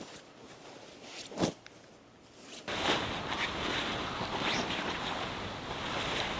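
A stream rushing steadily, cutting in abruptly about two and a half seconds in after a quieter stretch that holds one brief whoosh.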